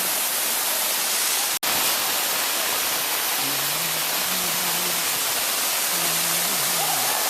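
Steady rushing hiss of a nearby waterfall, with a split-second break in the sound about one and a half seconds in.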